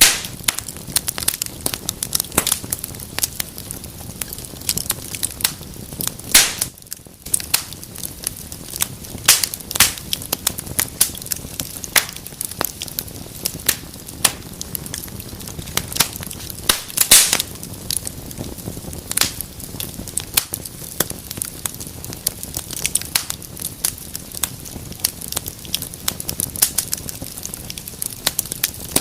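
Wood fire in a fireplace, crackling steadily over a low hiss, with frequent sharp pops and a few louder snaps about six and seventeen seconds in.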